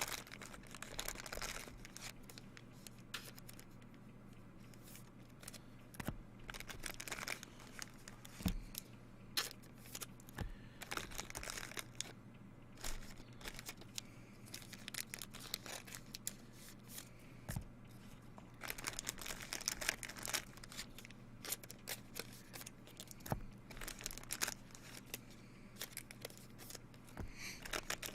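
Baseball card pack wrappers being torn open and crinkled, in irregular crackling bursts, with a few soft knocks as things are set down. A steady low hum runs underneath.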